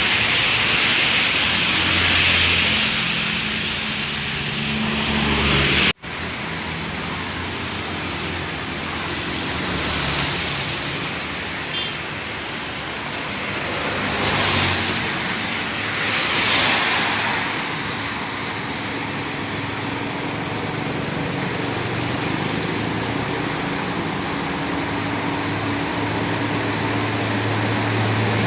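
Traffic of trucks and buses on a wet road in the rain: a steady hiss of rain and tyre spray that swells three times as vehicles go past, over the low, steady running of heavy engines.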